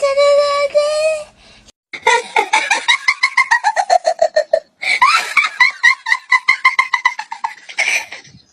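Two long bursts of rapid, high-pitched laughter that fall in pitch, following a single held high note at the start.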